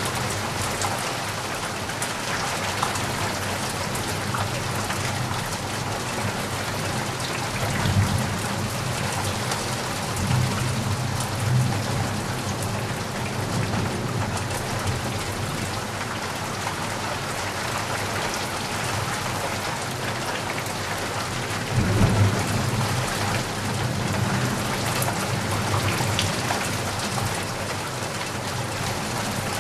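Steady rain falling, with low rumbles of thunder swelling about eight seconds in, again around ten to twelve seconds, and most strongly about twenty-two seconds in.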